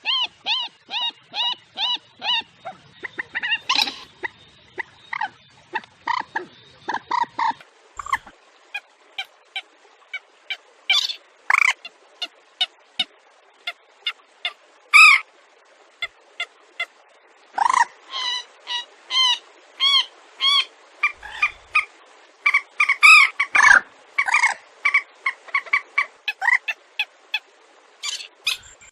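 Recorded waterbird calls played as a netting lure, such as swamphen, sandpiper and rail: short call notes repeated in quick series of a few a second, with several kinds of note following one another.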